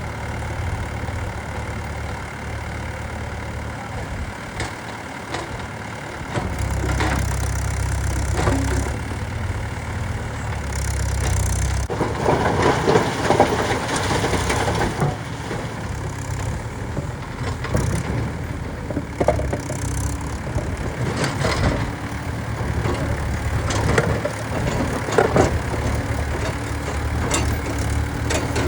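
Diesel engine of a JCB 3DX backhoe loader running and revving up at times as it works, with scattered knocks and clatters.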